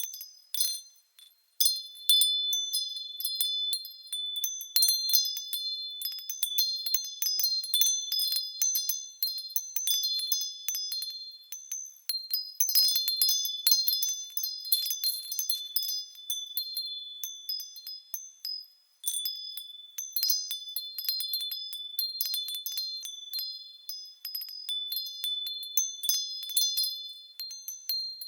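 Japanese fūrin wind bells ringing irregularly as they sway in the breeze: a steady scatter of sharp, high, clear strikes with ringing tones, briefly dropping away about a second in and again about two-thirds of the way through.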